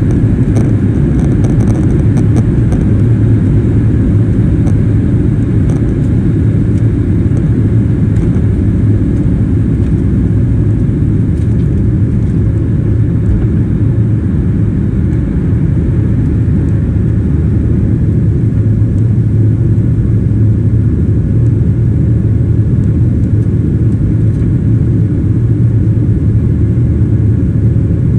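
Boeing 737-700's CFM56-7B jet engines running at high power, a loud steady rumble that holds even throughout.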